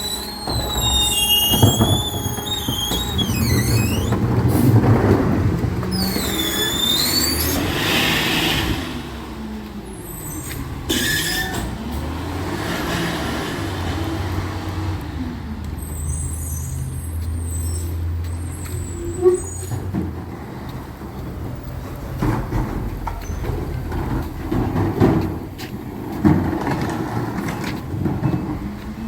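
Recycling truck's engine running with a steady low drone, with high wavering squeals in the first few seconds and again around six seconds in, and bursts of hiss, as from air brakes, around eight and eleven seconds in. Fainter squeals come later.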